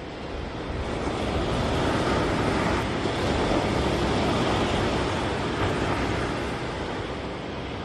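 Ocean surf rushing, a dense hiss that swells about a second in and eases off near the end, with wind on the microphone.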